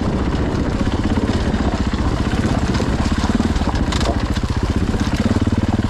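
Dirt bike engine running steadily at low revs, with a fast, even putting.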